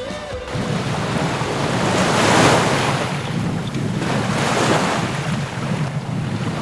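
Water rushing along a sailboat's hull and wind buffeting the microphone as the boat sails under way. The rush swells louder twice, about two and a half and four and a half seconds in.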